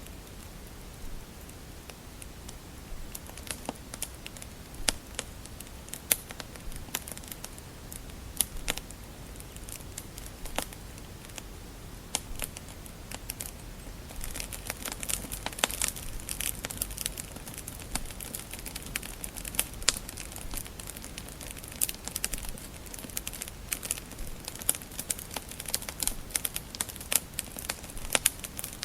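Wood fire crackling in a fireplace: irregular sharp snaps and pops over a steady hiss, the snapping growing denser about halfway through.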